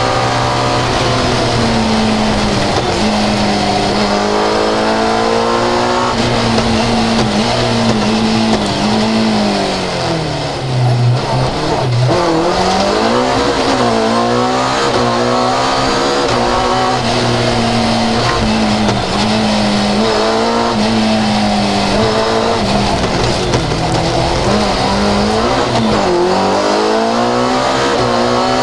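Fiat 131 rally car's engine heard from inside the cabin at stage pace, revs repeatedly climbing and falling with gear changes. About ten seconds in the revs drop low and then build back up.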